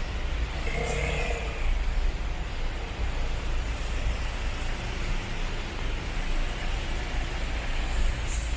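Road traffic: the steady rumble and hiss of passing vehicles.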